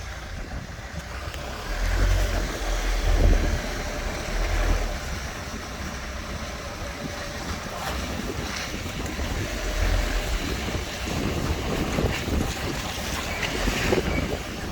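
Land Rover Freelander 2 on the move, with road and wind rumble and heavy low thumps about two seconds in and again near ten seconds. Through it comes a creaking and squeaking from the car's front end.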